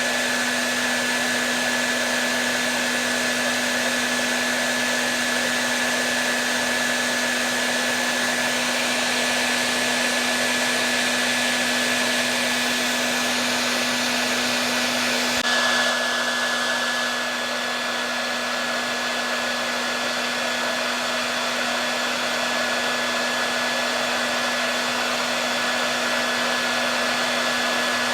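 Hair dryer running steadily: an even blowing noise with a constant motor hum and whine, its tone shifting slightly about halfway through.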